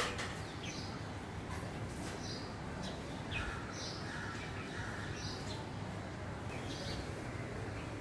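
Small birds chirping in a tree: short high chirps about once a second, with a lower call around the middle, over a steady low background noise. A brief knock sounds right at the start.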